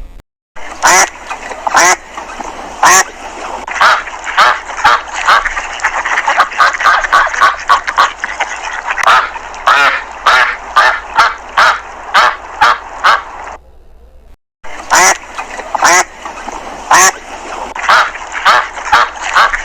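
Duck quacking, many short quacks, some in quick runs, with a break of about a second a little past the middle.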